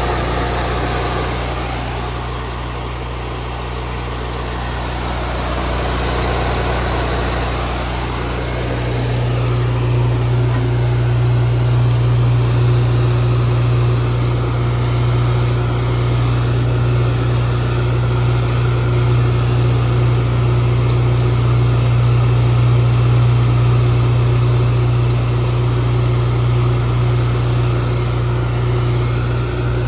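Honda GX800i fuel-injected V-twin engine on a road cutter running steadily after an electric start; about nine seconds in it gets louder and then holds at that higher, even speed.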